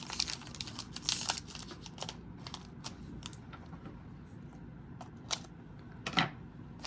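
Small clicks and crinkles of a foil trading-card pack and its cards being handled and opened. A quick flurry of clicks comes in the first two seconds, then it goes quieter, with a few louder clicks near the end.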